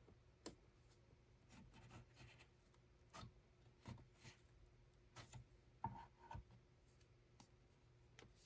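Faint, irregular clicks, taps and rubbing from hands working at a handloom and its threads, with a sharper click and a short squeak about six seconds in.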